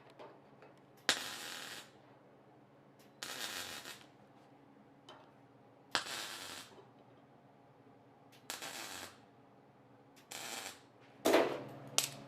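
Welder laying short tack welds on sheet-steel body panels: about six brief crackling bursts a second or two apart, over a faint steady low hum. The tacks are placed in turn around the panel, like bolts torqued down around a cylinder head, so the heat spreads and the thin metal does not overheat or warp.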